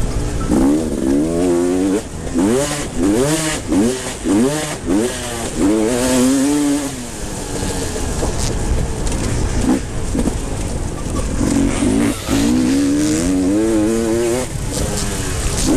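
Motocross bikes racing, their engines revving hard in repeated rising sweeps that drop back as they shift gear, several bikes overlapping at times.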